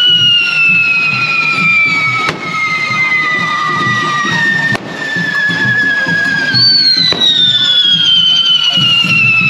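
Handheld firework fountains spraying sparks, with long whistles that slowly fall in pitch; a new whistle starts high about two-thirds of the way through. Three sharp cracks of firecrackers go off along the way.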